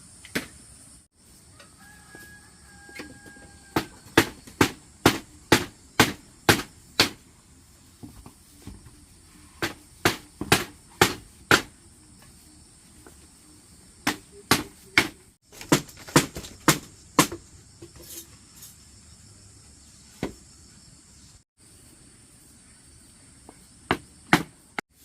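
Runs of sharp tool strikes, about two a second, in groups of several blows with short pauses between, as in building work. A steady high insect drone sounds underneath.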